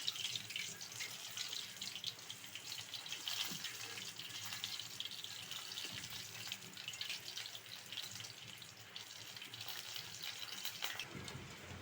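Flour-coated chicken pieces deep-frying in hot oil: a steady, dense sizzle of fine crackles.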